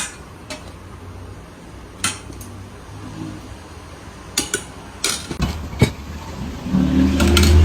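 Bowls, spoons and utensils clinking and tapping a few separate times over a low steady hum as a bowl of noodles is topped. Near the end a louder low humming drone sets in.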